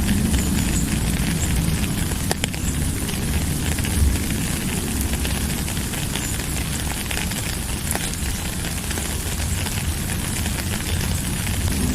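Steady rain falling, a continuous hiss over a low rumble, with scattered faint drop ticks.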